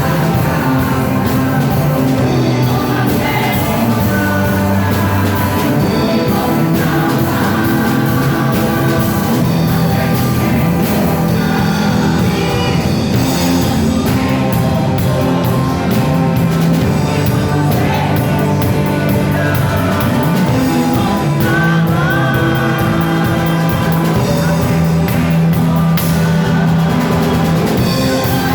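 Live worship music with a band: amplified singing over guitars, bass and drums, playing steadily.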